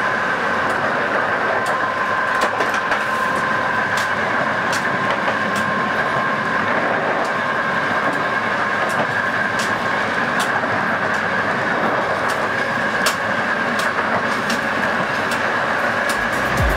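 Train running steadily at speed, heard from a locomotive cab beside a coupled CFR class 40 electric locomotive: a constant rush and rumble with two steady high whines, and sharp rail-joint clicks every second or two.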